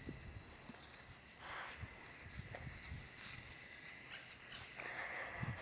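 A steady chorus of insects, crickets trilling high in an even run of rapid pulses.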